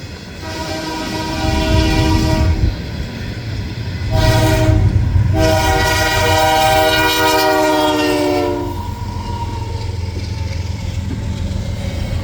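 Locomotive air horn sounding a multi-note chord in three blasts: a long one, a short one, then a longer one that dips slightly in pitch at its end. Under it runs the low rumble of the passing train.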